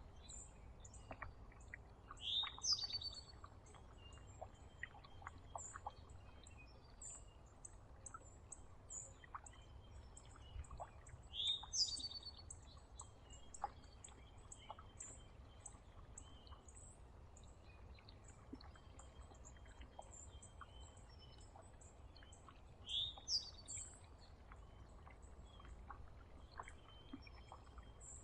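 Wild songbirds calling: a steady run of short, very high, thin chips, with a louder call that sweeps up and back down repeated three times about ten seconds apart. Faint scattered clicks and a low rumble sit underneath.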